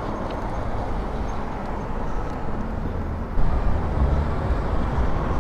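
Street traffic noise with a low rumble, a steady haze without distinct tones, that steps louder about three and a half seconds in.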